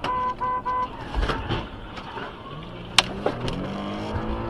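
Car horn sounding in short blasts, then knocks and a sharp crack, then a vehicle engine running with its pitch rising as it speeds up.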